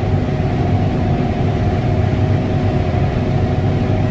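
Diesel engine of a large farm machine running steadily: a continuous low drone with a faint higher hum above it.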